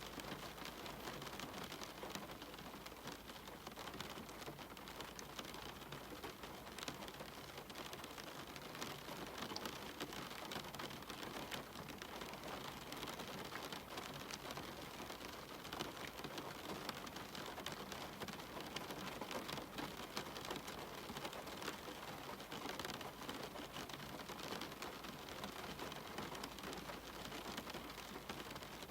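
Steady rain falling on a cabin window: an even hiss dotted with many small drop ticks, without thunder.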